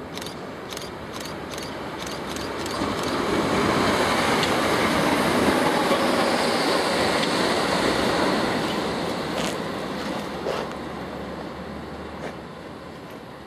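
A Class 319 electric multiple unit passing by: the rumble of its wheels on the rails builds as it approaches, is loudest as it goes past, then fades as it draws away. A few sharp clicks come in the first two seconds.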